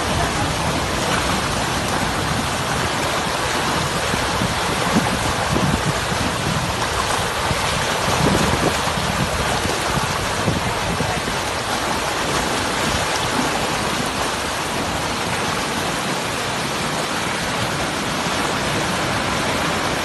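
Creek swollen by an hour of rain, its water rushing in a loud, steady roar of noise.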